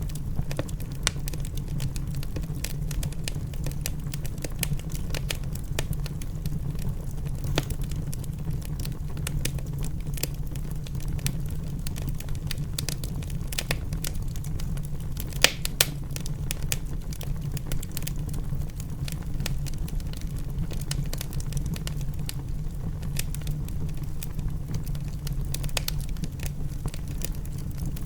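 Wood fire crackling in a fireplace: irregular sharp pops and snaps over a steady low rumble, with two louder snaps about halfway through.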